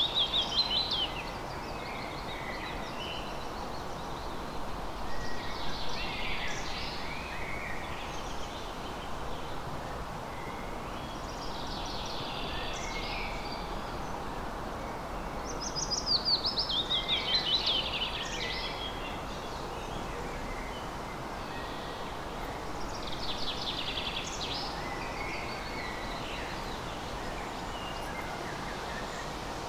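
Forest birdsong: a songbird repeats a short, quick, falling phrase about every five to seven seconds, five times, over a steady background hiss.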